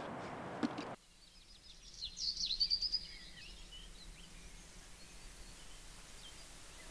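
Quiet outdoor ambience with a cluster of short, high bird chirps and trills about two seconds in.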